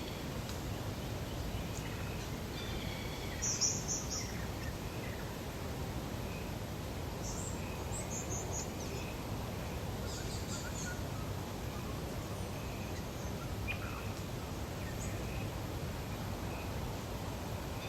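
Lakeside nature ambience: a steady low background noise with several birds calling. The loudest are short clusters of high-pitched chirps about three and a half, seven and a half and ten seconds in, with softer calls scattered between.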